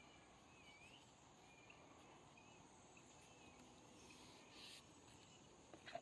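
Near silence: a faint steady insect drone, probably crickets, with scattered faint short chirps and one brief soft rustling noise about two-thirds of the way through.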